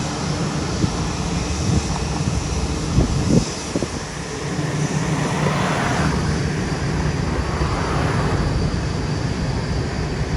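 Jet aircraft engines running: a steady rumble and hiss that swells a little about halfway through, with a few faint knocks around three seconds in.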